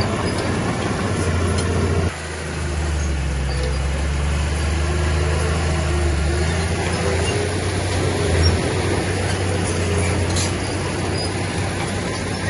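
Diesel engine of heavy earthmoving machinery running with a steady low drone. It drops abruptly about two seconds in and then builds back up.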